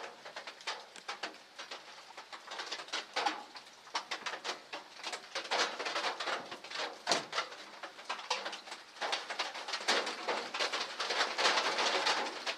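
Rain pattering on the roof of a trailer hunting blind: many irregular taps, growing denser near the end.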